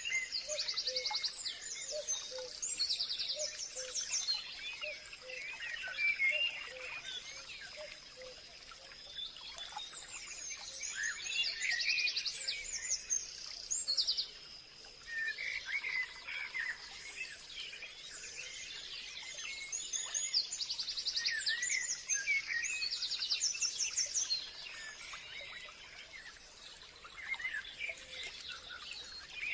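Forest birdsong: several birds chirping and singing fast trills, overlapping throughout, over a thin steady high-pitched hum.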